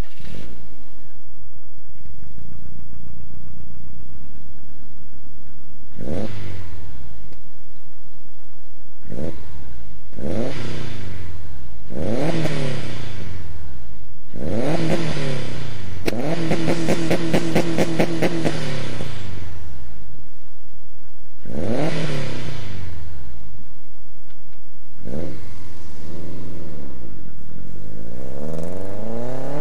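2006 Subaru Impreza STi's turbocharged flat-four, fitted with unequal-length headers, a divorced-wastegate downpipe and a Maddad Whisper single-tip catback, idling steadily and then revved in place. It is blipped repeatedly, the pitch rising and falling back to idle each time, with one rev held high for about three seconds near the middle.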